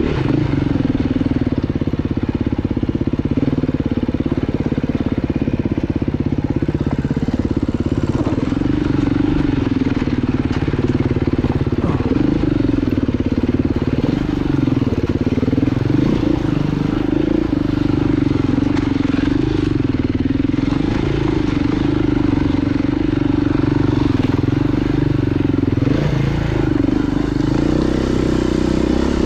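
Off-road motorcycle engine running continuously as it is ridden, its pitch wavering slightly up and down with the throttle.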